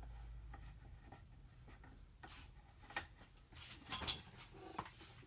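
Light handling clicks, knocks and scrapes as a small outboard motor is set into a test tank, with a sharper knock about four seconds in, over a faint steady hum.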